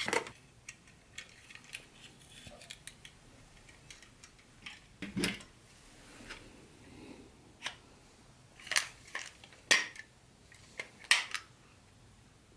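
Small hard objects being handled, the kind of sound made by model train pieces and their packaging. It comes as scattered sharp clicks and taps, with a duller knock about five seconds in.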